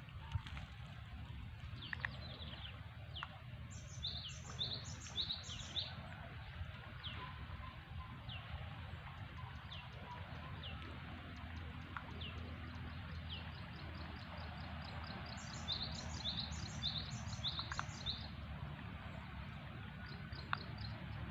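Small birds chirping: scattered single downward chirps, and twice a quick run of four to six repeated high notes, about four seconds in and again about fifteen seconds in. A steady low hum runs underneath, with a few faint clicks.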